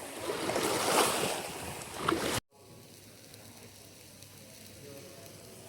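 Rushing wind and sea noise, surging in gusts, that cuts off abruptly about two and a half seconds in, leaving only a faint steady hiss.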